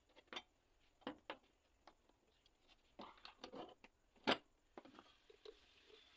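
Scattered light clicks and knocks of objects being handled, with the sharpest knock about four seconds in.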